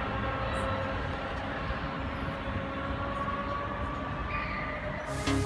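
Electric suburban train approaching from down the line: a steady rumble with a faint hum, just after it sounded its horn. Music comes in right at the end.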